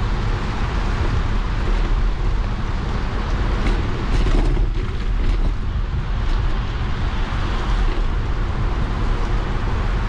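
Bicycle riding on a wet path in the rain: a steady low wind rumble on the microphone over a broad hiss of tyres and rain, with a few faint clicks about four seconds in.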